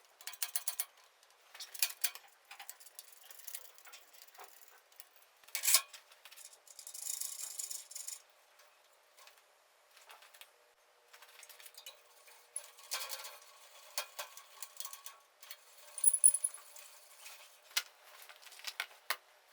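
Workshop handling sounds: scattered clicks and taps of tools and parts, a short scraping noise about seven seconds in, and a brief high squeak about sixteen seconds in.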